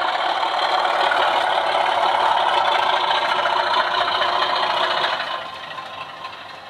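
DCC sound decoder in a Sutton's Class 24 model locomotive playing its Sulzer Type 2 diesel engine sound through the model's small speaker, with the rattle of the wheels running on the track. The sound falls away about five seconds in.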